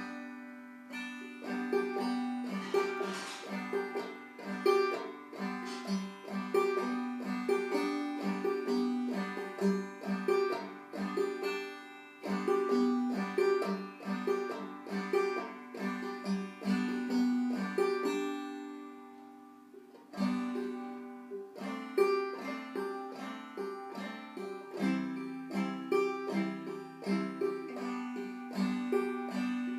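A beginner's banjo, played clawhammer style: a steady pulse of plucked single notes and brushed chords. The playing breaks off and rings away about two-thirds through, then picks up again, with a lower note added near the end.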